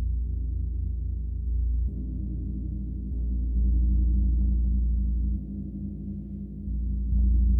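Gong resounding in a deep, sustained, many-toned drone, freshly struck about two seconds in, then swelling and easing in loudness.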